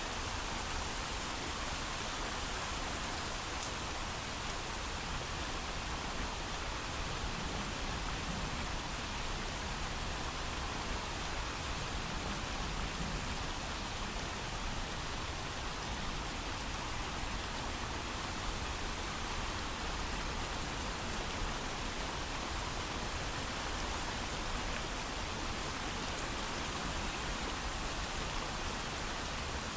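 Steady heavy rain, an even hiss with fine drop patter and no thunder.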